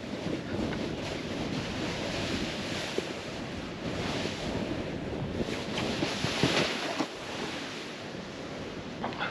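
Snowboard sliding through fresh powder snow: a rushing hiss that swells about four seconds in and again a couple of seconds later, with wind buffeting the microphone.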